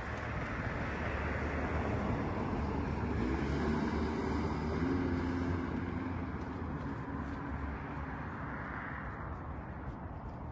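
1937 Oldsmobile F37's six-cylinder flathead engine idling steadily, a little louder for a few seconds midway, then easing off.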